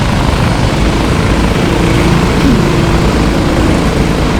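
Go-kart engines running as a field of racing karts circulates, making a steady mechanical drone with a higher engine note that comes and goes, briefly rising about two and a half seconds in.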